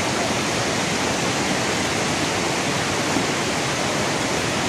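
Floodwater rushing into the harbour dock: a steady, unbroken rush of flowing water.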